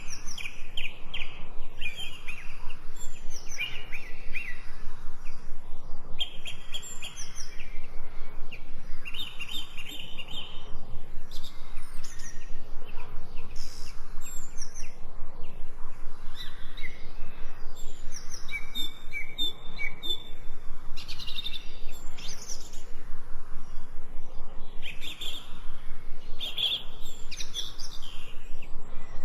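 Birdsong: several small birds chirping and calling over one another in short repeated phrases, over a faint steady background noise.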